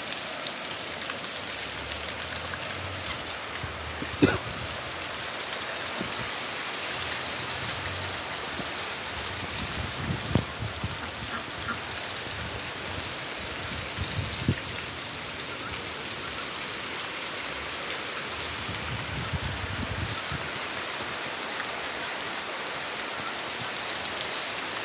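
Steady rain falling on the ground and roofs, an even hiss with no break. Three short, dull bumps stand out, about four, ten and fourteen seconds in.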